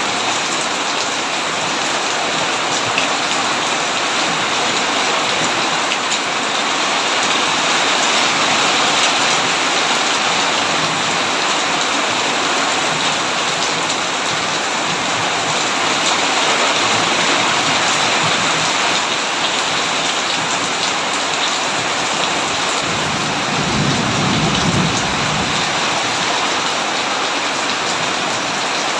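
Heavy rain falling steadily in an even hiss. About three-quarters of the way through, a low rumble of thunder rolls in for a few seconds.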